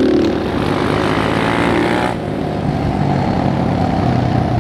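Dirt bike engine running while riding, steady and loud, with its higher, rougher part dropping away suddenly about two seconds in as the engine note eases.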